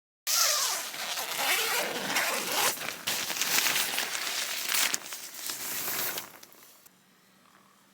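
A zipper being pulled in stops and starts, with fabric rustling, ending about six and a half seconds in.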